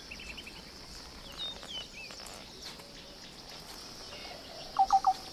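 Savanna ambience: a steady high insect drone, a few thin bird chirps a little over a second in, and three short, louder calls in quick succession near the end.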